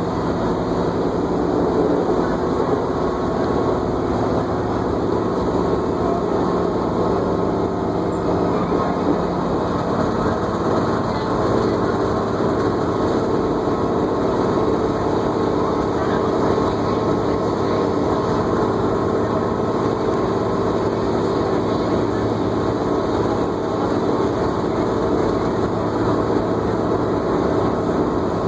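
New Flyer D40LFR diesel transit bus under way, heard from inside the cabin: a steady engine drone and drivetrain whine over road noise, the whine shifting slightly in pitch about ten seconds in.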